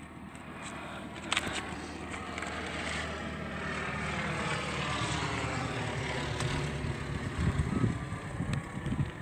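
Propeller aircraft engine droning as a light plane flies past, growing louder toward the middle. Wind buffets the microphone near the end.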